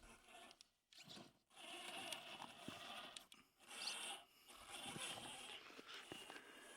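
Faint scraping and crunching of a large RC trail truck's tyres over rock and gravel, with a faint steady electric motor whine. The sound drops out briefly twice in the first second and a half.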